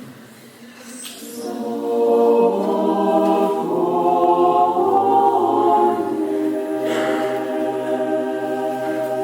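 Orthodox church choir singing a cappella: voices come in about a second and a half in and hold long sustained chords.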